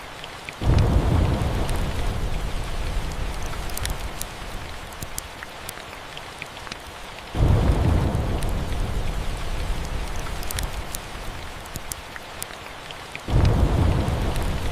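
Steady rain falling, with three claps of thunder, each starting suddenly and rumbling low before fading over several seconds. Faint crackles of a fireplace pop through now and then.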